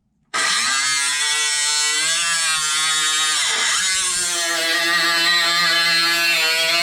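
Handheld power cutoff tool spinning up and cutting sheet metal, a steady whine that dips briefly in pitch under load about three and a half seconds in.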